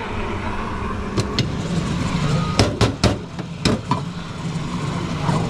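Espresso-bar work: a steady machine hum under several sharp knocks and clatters of coffee-making gear, bunched a little past halfway.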